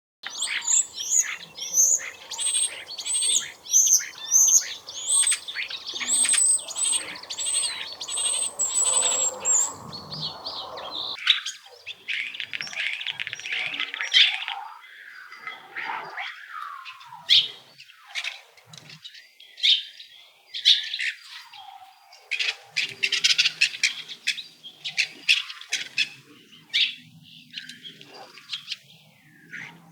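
Small birds chirping and twittering. A quick run of repeated high chirps for about the first ten seconds, then looser, scattered chirps.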